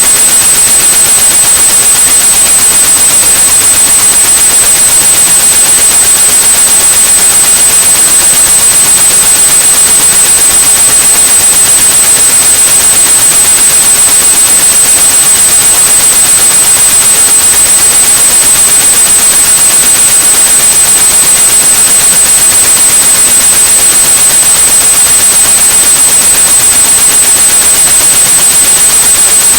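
A steady, high-pitched 8100 Hz tone over loud, constant white noise: a tinnitus-masking signal, meant to cover the ringing in the ears.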